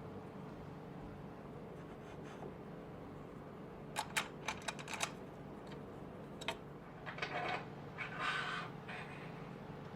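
Sharp clicks and knocks of small hardware being handled and fitted: a quick cluster about four seconds in, a single click a little later, then a short scraping rustle near the end, over a steady low hum.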